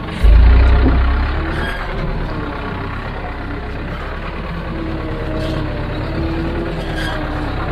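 Heavy diesel machinery running, with a strong low rumble in the first second and a half that then settles to a steady engine drone.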